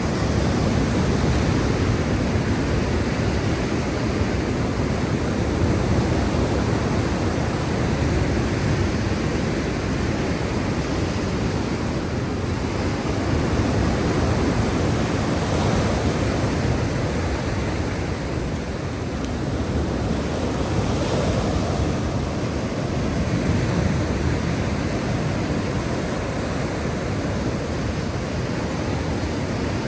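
Black Sea surf: a steady wash of waves on the shore, swelling and easing gently every few seconds.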